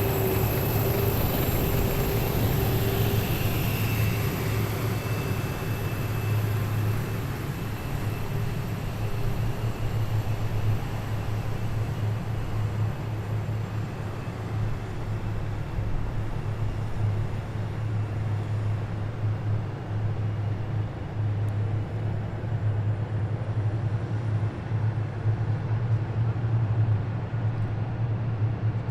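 Heavy military vehicles driving past in a column: a deep, steady engine rumble, with a high whine that fades out over the first few seconds.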